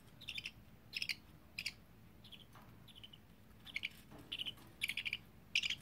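Budgerigars chirping: a run of short, high-pitched chirps, about one every half second to a second.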